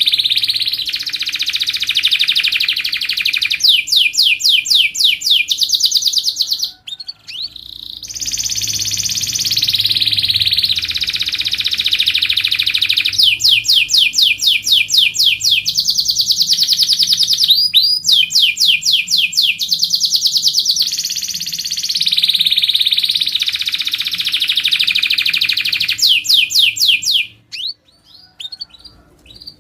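Domestic canary singing long, fast trills and rolls of rapidly repeated high notes. There are short breaks about 7 and 17 seconds in, and the song stops shortly before the end.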